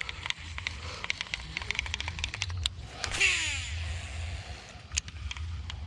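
Fishing reel and tackle ticking and clicking, then about three seconds in a lure cast: a whirring whine that falls quickly in pitch as the reel spool spins and slows. A low steady rumble runs underneath.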